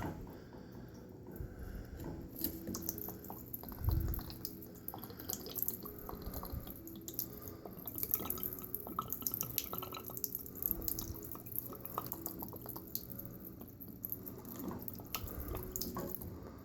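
Water leaking from a broken basement water line, dripping and splashing in many irregular drops with a faint hiss. A low thump about four seconds in.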